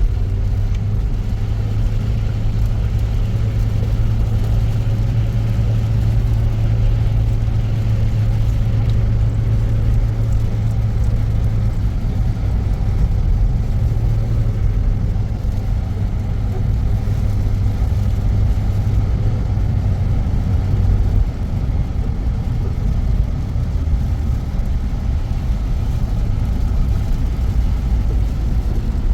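Motor vehicle driving, heard from inside the cabin: a steady low engine hum over road rumble. The hum weakens about twelve seconds in and gives way to rumble alone a little after twenty seconds.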